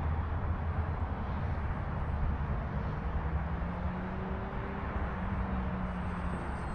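Strong gusty wind buffeting the microphone, a steady low rumble. A faint steady hum holds under it for a few seconds in the middle.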